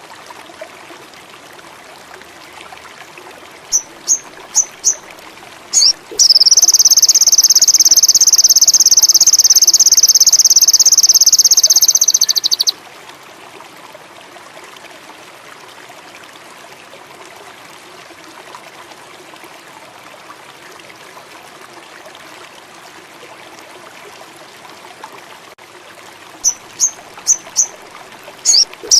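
Sogon indigo (indigo flycatcher) song: a few short, high notes, then a long, even, high trill of about six seconds. The phrase starts again near the end. A steady trickle of running water sounds underneath.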